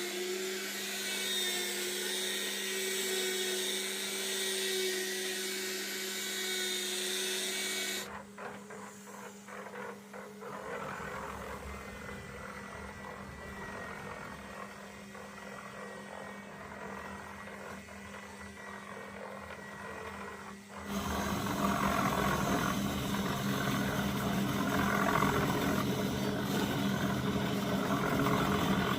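A motor running steadily with a constant hum, the sound changing abruptly about eight and again about twenty-one seconds in.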